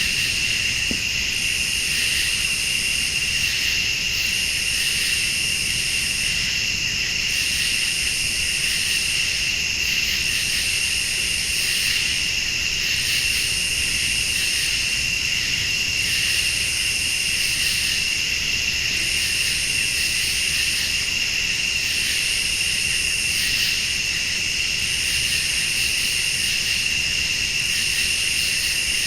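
Crickets and late-summer night insects trilling steadily in a dense chorus, with a higher-pitched insect calling in bursts roughly every two seconds.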